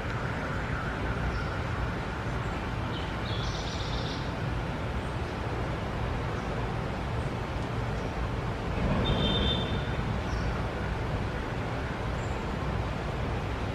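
Steady low background rumble, like distant traffic, with a few short, high bird calls: one cluster about three seconds in and a brief call about nine seconds in.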